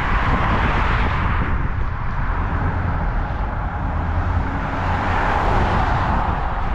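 Steady road-traffic noise, swelling twice as vehicles go by.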